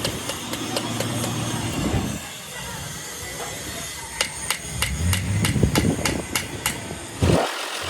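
Hammer blows on sheet metal: quick, evenly spaced strikes, about three to four a second, during bodywork on a truck cabin.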